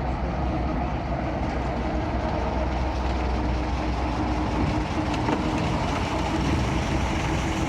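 Ruston 48 diesel shunting locomotive running steadily as it moves wagons, its gearbox basically silent.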